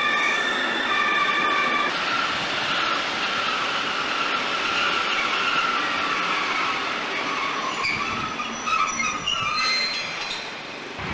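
Railway passenger coaches rolling through a station with a steady, high-pitched wheel squeal. About two seconds in, this gives way to a broader rushing rumble with a wavering squeal as a DB Class 110 electric locomotive draws its train along the platform.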